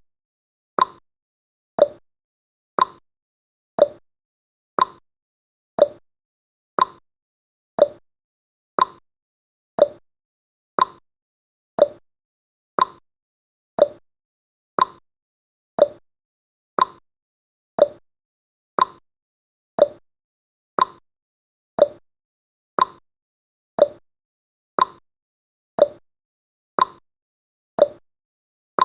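Countdown timer's ticking sound effect: one short, sharp tick each second, evenly paced.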